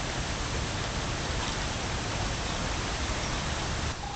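Steady rush of running water in the otter pool, with a low rumble beneath it; it dips briefly near the end.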